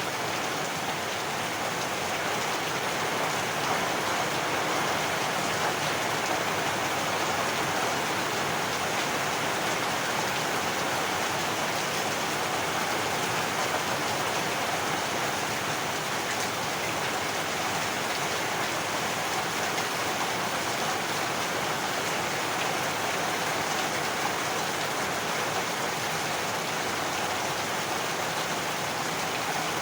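Heavy rain falling steadily, a dense, even hiss of rain on surfaces with no breaks.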